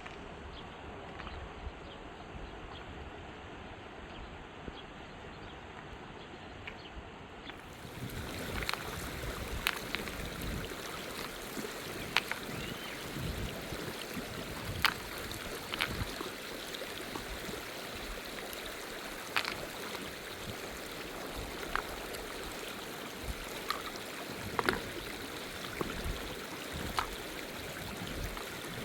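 Rushing river water, muffled at first, then brighter and louder from about eight seconds in, with scattered sharp clicks and knocks over it.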